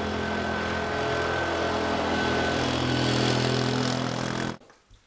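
Small engine of a three-wheeled tuk-tuk-style vehicle running steadily as it drives along, its note stepping up a little about midway. It cuts off abruptly near the end.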